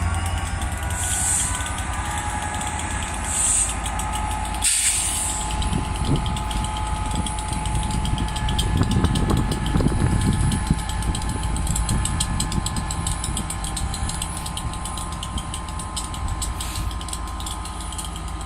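Railway locomotive standing at a platform with its engine running steadily at idle. Three short hisses come in the first five seconds.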